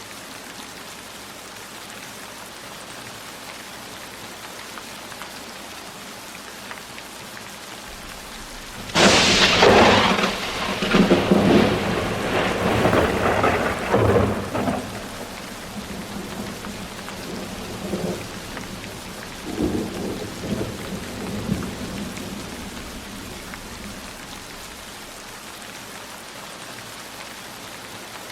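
Steady heavy rain falling, broken about nine seconds in by a sudden crack of thunder that rolls on for several seconds and dies away in a few fainter rumbles.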